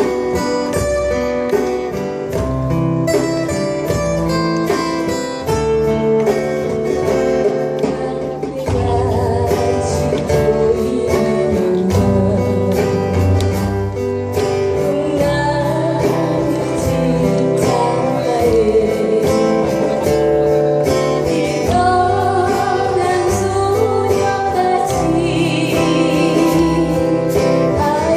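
A band playing a slow song live, led by acoustic guitar over a steady bass; a singing voice comes in about nine seconds in and carries the melody.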